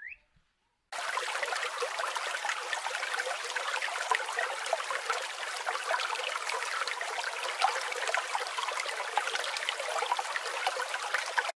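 Water trickling and splashing steadily, starting about a second in.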